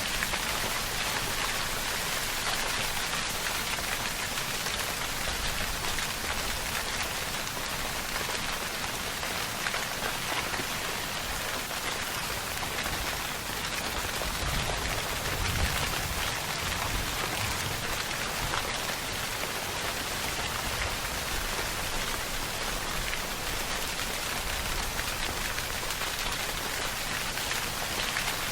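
Steady rainfall: an even hiss of rain with many fine drops pattering on a surface.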